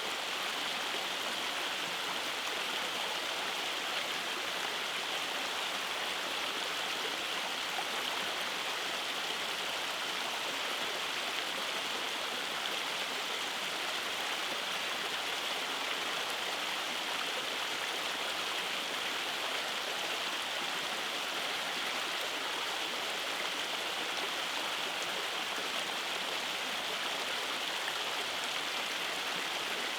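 Rainforest stream cascading over rocks: a steady, even rush of flowing water with no pauses.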